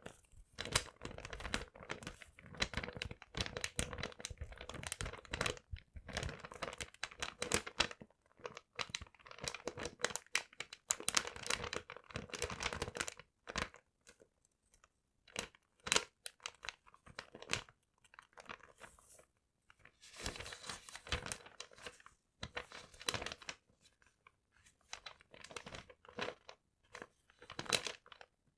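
Paper being crumpled and torn close up, crackling in dense bursts separated by brief pauses.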